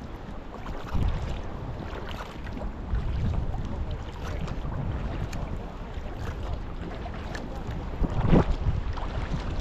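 Sea kayak under way: paddle strokes dipping and dripping into the sea amid steady wind buffeting the microphone, with a louder rushing burst about eight seconds in.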